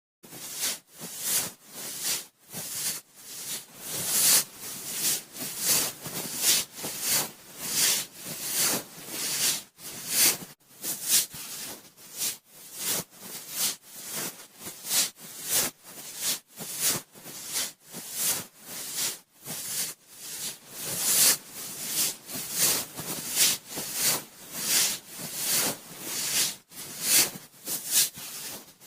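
Cotton swab rubbing and swirling against a binaural microphone's ear: a rhythmic scratchy rustle, about two strokes a second.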